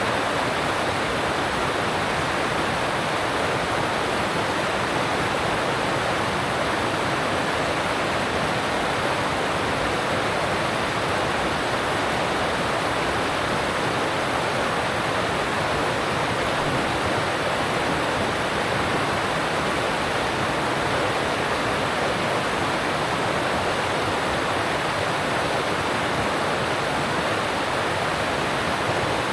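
Alpine mountain stream rushing over rocks, a steady, unbroken rush of water.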